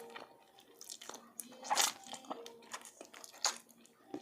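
Close-miked eating sounds: a person biting and chewing, with scattered sharp crunching clicks, the loudest about two seconds in and again about three and a half seconds in.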